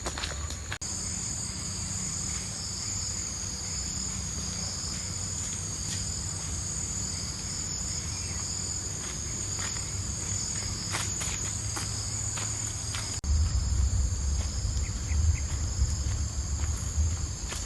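Steady high-pitched chorus of jungle insects. About thirteen seconds in, a low rumble comes in suddenly underneath it.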